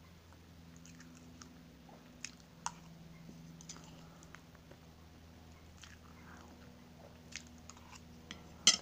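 Close-up chewing of soft chocolate cake, with a few sharp clicks of metal forks, the loudest one near the end.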